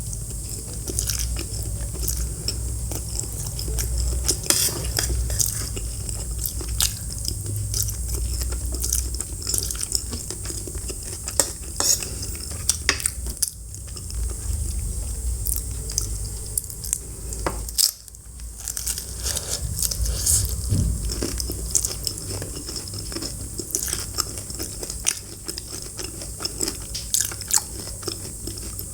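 Close-miked eating: repeated crunchy bites and chewing, with clinks of cutlery against a dish.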